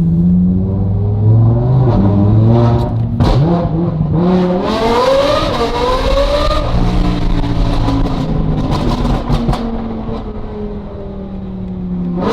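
Sports car engine revving up through a rising pull a few seconds in, its pitch dropping back after about three seconds, then running steadily.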